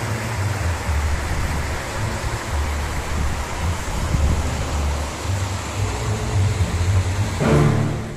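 Steady outdoor rushing noise with an uneven low rumble, like wind on the microphone or rushing water. Music starts near the end.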